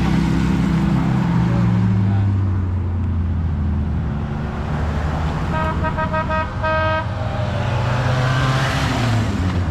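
Cars driving past with engines running, one sounding its horn in a quick run of short toots and then a longer one about six seconds in. Another car's engine rises and passes near the end.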